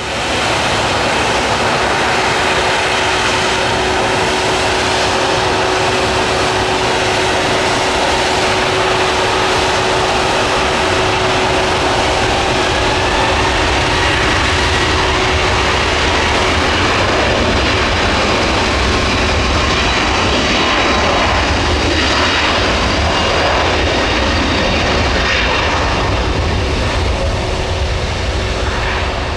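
Airbus A321neo jet airliner's twin turbofan engines running loud and steady as the aircraft departs. A steady hum sits under the roar, and a deeper rumble builds through the second half.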